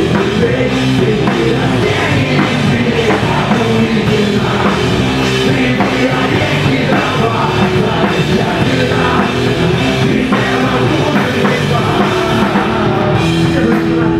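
Rock band playing live at full volume: distorted guitars, bass and drum kit in an instrumental stretch between vocal lines.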